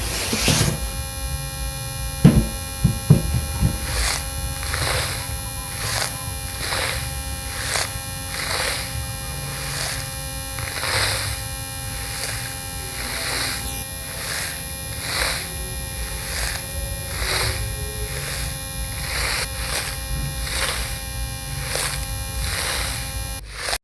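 Small motor running steadily with a buzzing hum, a regular click or knock about every two-thirds of a second from the mechanism it drives, with a few louder knocks a few seconds in; it cuts off suddenly near the end.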